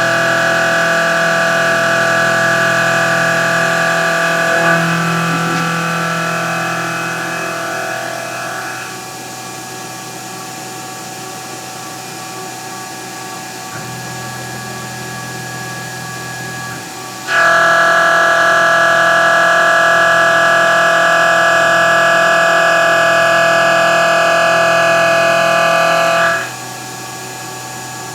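CNC milling machine running a cutting cycle: the spindle and cutter give a steady high whine over a constant hiss of mist coolant air. The whine fades away after the first several seconds, leaving mostly the hiss, then starts again suddenly about 17 s in and cuts off abruptly about 26 s in as the tool moves between cutting passes.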